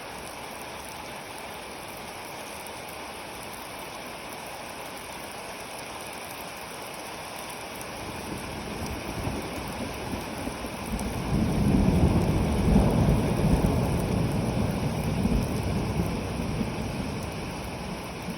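Steady rain falling, then about eight seconds in a long, low roll of thunder builds, is loudest a few seconds later, and slowly eases off.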